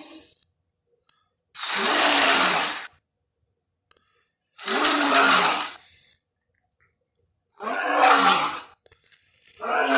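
Lion roar sound effects: three roars of about a second and a half each, separated by silence, with a fourth starting near the end.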